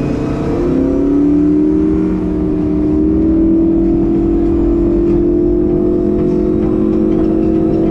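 Motorboat engine running under way: its pitch climbs as it speeds up about a second in, then holds steady at speed over a low rumble.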